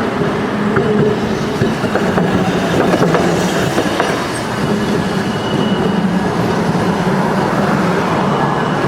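Electric streetcar running along street track: a steady motor hum with the clatter of wheels on the rails.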